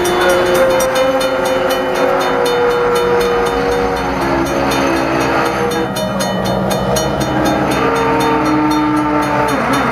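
Cape Cod Central passenger coaches rolling past at close range, their wheels squealing in drawn-out tones that shift in pitch, with a rapid, even dinging like a grade-crossing bell over the rumble.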